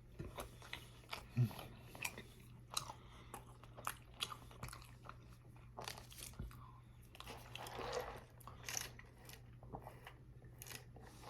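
Close-miked chewing and biting of a greasy Wendy's Baconator burger: irregular wet smacks and small crunches, with a longer stretch of chewing about two-thirds of the way through.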